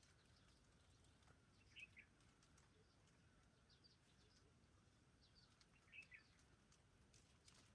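Near silence with faint bird chirps: two short calls about four seconds apart, with fainter high chirps between them.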